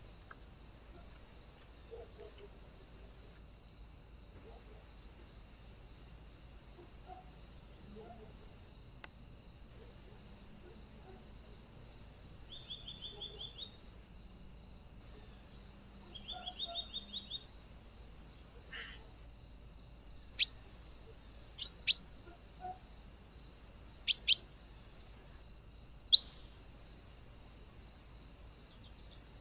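Small birds calling at a feeder: two quick runs of short notes, then a series of six sharp, loud chirps, some in close pairs.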